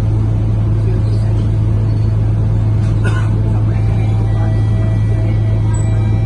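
Scania K230UB bus engine running with a steady low drone, heard from inside the passenger cabin while the bus is under way. A faint whine joins in about four seconds in.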